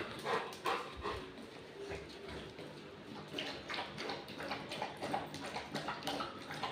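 Golden retriever's claws clicking and tapping irregularly on a hard floor as the dog moves about.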